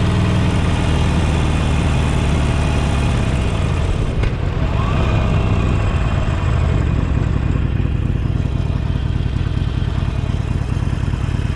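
The air-cooled Evolution 1200 cc V-twin of a 2018 Harley-Davidson Sportster 48 Special running steadily with the bike under way, with a short click about four seconds in.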